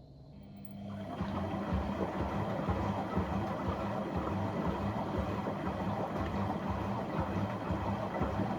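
Dishwasher pump starting up with a steady hum, followed about a second in by water spraying and swishing inside the tub, which then runs on evenly.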